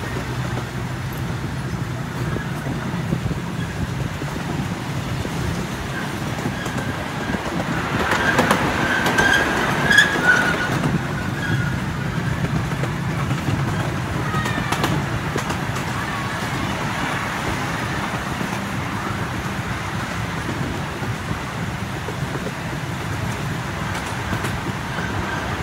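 Miniature park train running along its track in open cars, with a steady rumble of wheels on rails. It grows louder for a few seconds about a third of the way in, with some high squeaks.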